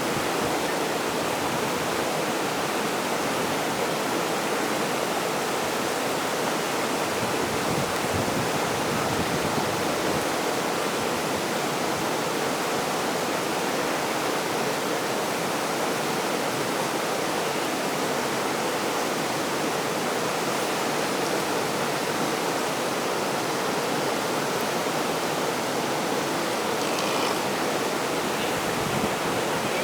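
Rushing river water, a steady unbroken noise.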